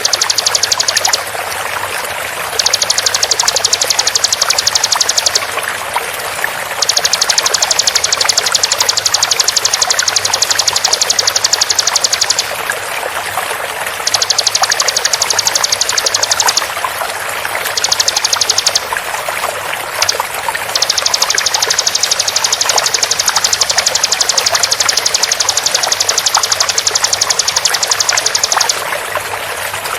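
Bar-winged prinia (ciblek) song in repeated bursts of very fast, evenly spaced high notes, each burst lasting from about a second to several seconds with short breaks, over a continuous sound of running water.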